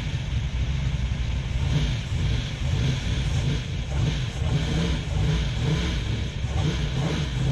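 Holden Torana SL/R 5000's V8 engine rumbling at low revs as the car creeps along in slow traffic, the rumble swelling and easing a little with the throttle.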